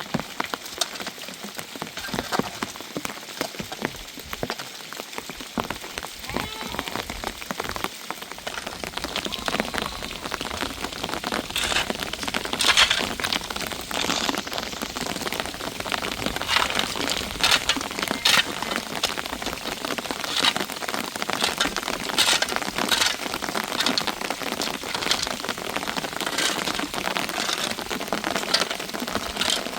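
Rain beating on a surface as a dense patter of many sharp drops, growing heavier about nine seconds in.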